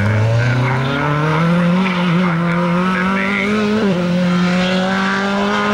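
Rally car engine revving up over the first two seconds, then held at high, steady revs through a tight turn, with a brief dip in pitch near four seconds.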